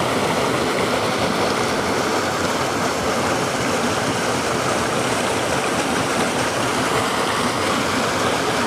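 Water pouring and splashing off a water wheel: a steady, loud rush of falling water.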